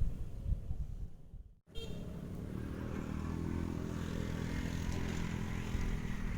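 Low rumbling noise, then a sudden brief cut to silence about a second and a half in. After it, a small engine runs steadily with an even hum.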